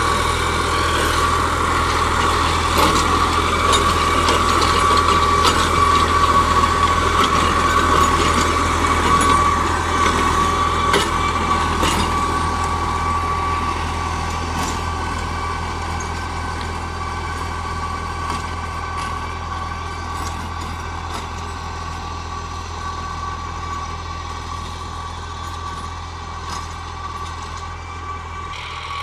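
New Holland 3600 tractor's diesel engine running steadily while working an 8-foot rotavator, with a steady high whine over the engine note. It grows gradually fainter over the last two thirds.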